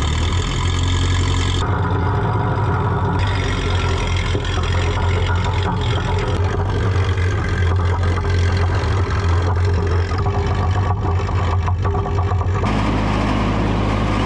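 Ferguson TO20 tractor's engine running steadily while working a box blade, its sound changing abruptly a few times.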